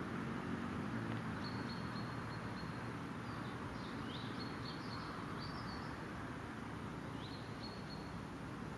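A small songbird chirping in short, high notes in three brief bouts, over a steady low background rumble.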